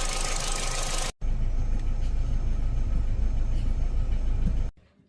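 Opel Astra H 1.4 16v petrol engine idling, with the unstable rough idle of a faulty brake servo check valve. A hissier take cuts out about a second in and gives way to a deeper engine sound, which stops abruptly near the end.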